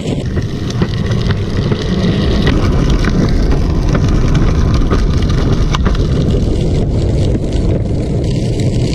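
Steady wind rush over the microphone and the rumble of a drift trike's wheels rolling at speed.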